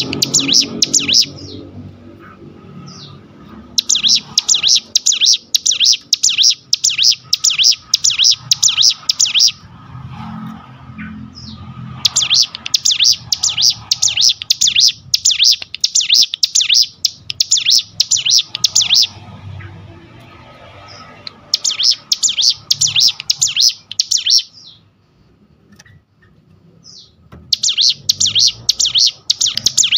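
Ciblek gunung, a prinia, singing long phrases of rapidly repeated high notes several seconds at a time, with short pauses between phrases.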